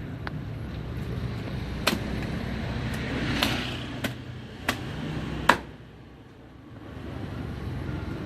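A knife knocking and tapping on a cutting board while fish is filleted: about six sharp knocks, the loudest about five and a half seconds in, over a steady low rumble.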